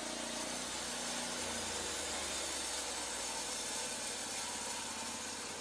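Portable band sawmill's engine running steadily, with a deeper low note coming in about a second and a half in.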